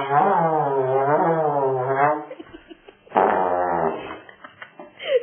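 Trombone held on one wavering note that slides up and down in pitch again and again, stopping about two seconds in; about a second later comes one short, raspy, buzzing blast.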